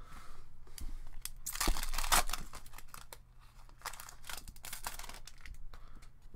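Foil trading-card pack wrapper crinkling and tearing, loudest about two seconds in, with more rustling a couple of seconds later as the cards are handled.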